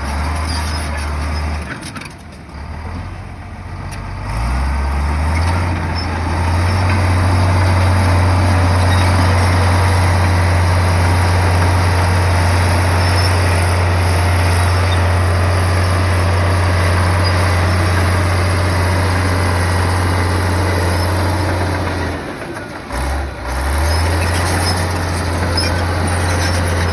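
Heavy earthmoving machine's diesel engine working with a steady low drone. It drops off about two seconds in, rises in pitch as it revs back up a couple of seconds later, and dips briefly again near the end.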